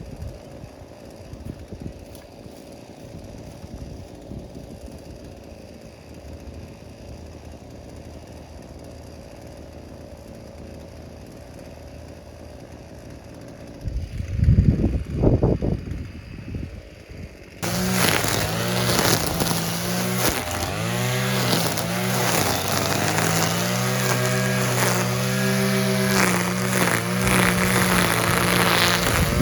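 Small two-stroke brush cutter engine revving up and down at high speed while cutting grass; it comes in loud and suddenly about two-thirds of the way in. Before it there is a quieter steady hum and a brief low rumble.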